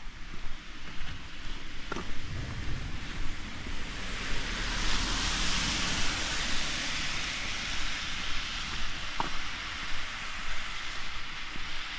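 Steady rain falling, with a louder rushing hiss that swells from about two seconds in, peaks midway and fades near the end; a few light taps.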